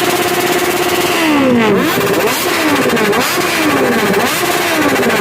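Vehicle engine held at steady high revs, then revved in repeated quick blips about a second in, the pitch dropping back after each one.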